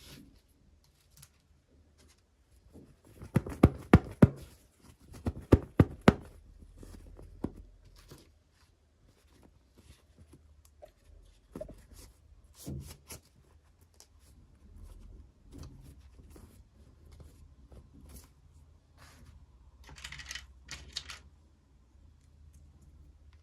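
Small toy pieces and packaging being handled: a quick run of sharp plastic clicks and knocks, loudest a few seconds in, then scattered taps and a brief rustle near the end.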